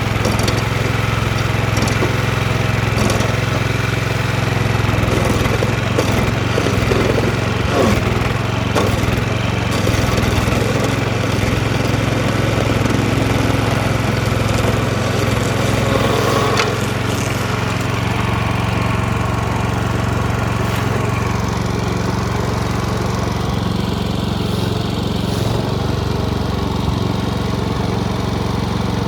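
DR stump grinder running under load, its petrol engine humming steadily while the cutter wheel chews into a tree stump with a busy crackle of chips and wood. About two-thirds of the way through the cutting noise eases off and the engine runs on more evenly.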